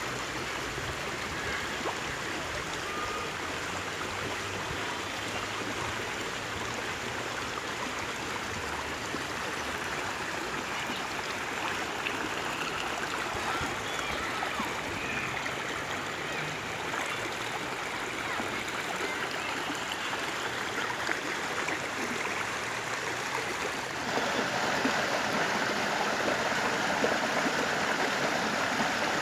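Running stream: a steady rush and babble of flowing water, which grows louder and brighter about 24 seconds in.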